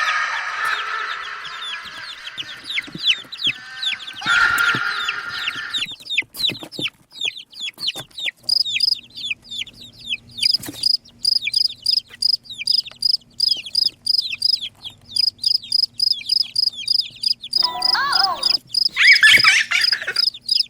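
Chickens clucking with many quick, high chick peeps. In the second half an evenly repeated high chirp runs about three times a second, and a loud fowl call comes near the end.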